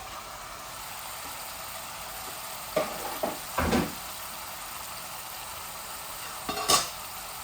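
Chicken pieces sizzling steadily as they fry in oil and spices in a pot, being dry-fried (bhuna) for a curry. A spoon stirs and scrapes the pot three times, about 3, 4 and 7 seconds in.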